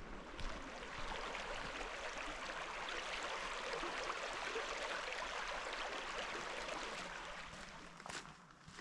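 River water rushing steadily. The sound swells about a second in and fades away near the end.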